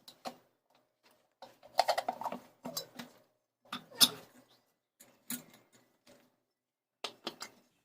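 Ceiling fan parts being taken apart by hand: clusters of short metallic clicks, knocks and rattles, with the sharpest knock about four seconds in.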